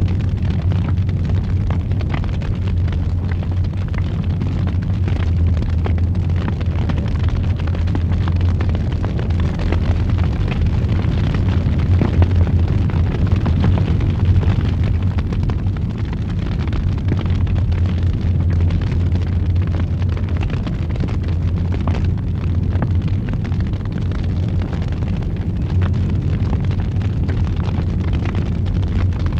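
Fire burning in a fireplace: a steady low roar with frequent small crackles and pops throughout.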